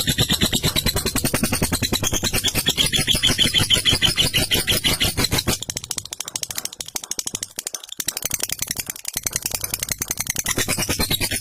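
Lovebird 'ngekek': a long, fast chattering trill made of many rapid clicks per second. It thins out and weakens a little past the middle, then builds up again.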